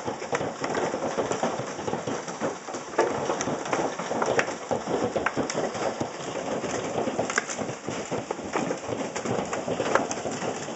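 Hailstones pelting down in a dense, steady rattle of irregular sharp knocks over a continuous hiss of falling ice.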